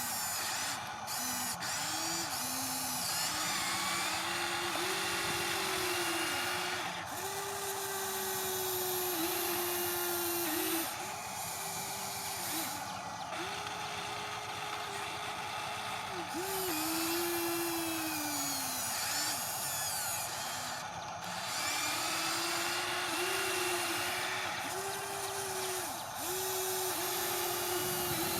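Small electric gear motors of a radio-controlled toy construction machine whining in short runs of one to three seconds, the pitch rising and falling as the controls are worked.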